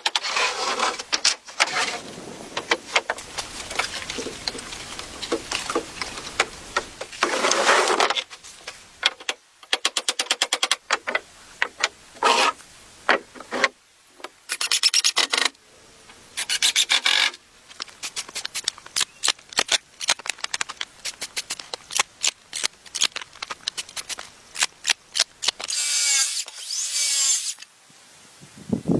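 Wood being worked with hand tools: quick, repeated rasping and rubbing strokes in bursts of a second or two, with short pauses between.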